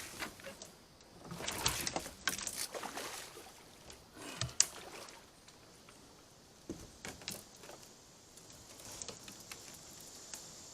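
Irregular knocks, thumps and short swishing, splashy noises from handling in a kayak while a hooked bass is brought alongside to be landed. The biggest bursts come a couple of seconds in and about four and a half seconds in, with quieter stretches between.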